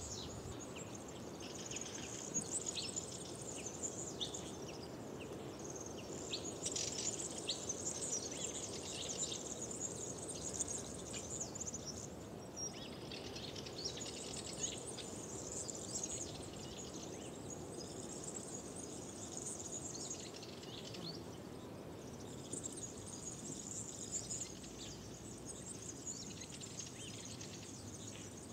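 Wild birds singing in spring, bursts of high chirping song that come and go in stretches of a few seconds, over a steady background rush.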